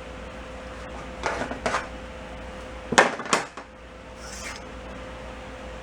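Metal tools and engine parts clinking on a workbench: two light clatters, then two sharp metal knocks about a third of a second apart, with a faint steady hum underneath.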